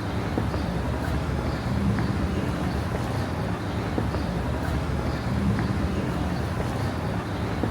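City street ambience: a steady low rumble of traffic, with faint voices of passers-by.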